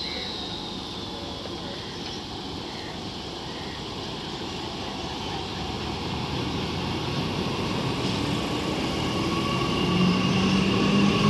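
A train approaching on the mainline: the rumble of wheels on the track grows steadily louder, and a steady hum joins it near the end.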